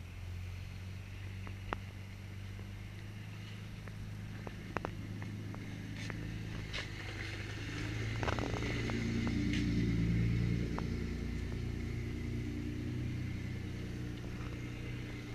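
Yamaha 250 HPDI two-stroke V6 outboard running with a steady low engine note; it rises in pitch and loudness about eight seconds in and then eases back, with a few light clicks scattered through.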